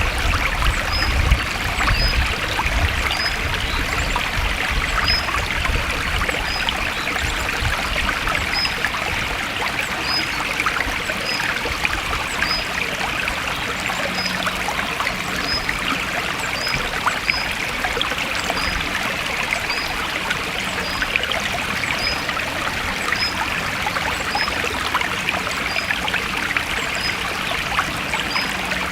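Stream water flowing steadily, trickling and splashing, with short high chirps repeating about once a second.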